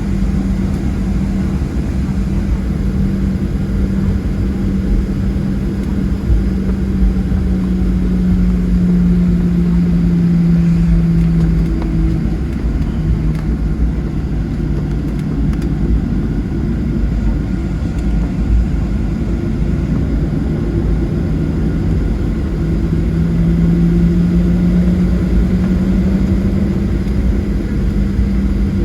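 Cabin noise of a Boeing 737-700 with its CFM56 jet engines running at low taxi power: a steady rumble with a low hum that drops slightly in pitch about a third of the way in and climbs back up near the end.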